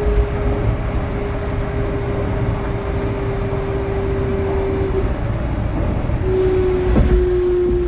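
Kintetsu 3200 series motor car running, heard from inside: its early Mitsubishi GTO VVVF inverter holds one steady whine over the running rumble. The whine cuts out about five seconds in, comes back a second or so later and sags slightly. A single sharp knock comes about seven seconds in.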